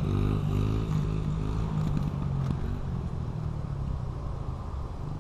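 Small Honda CRF70 dirt bike engine being revved, its pitch climbing and dropping several times in short throttle blips before easing to a lower, steadier run, as a rider tries to get enough gas to lift the front wheel.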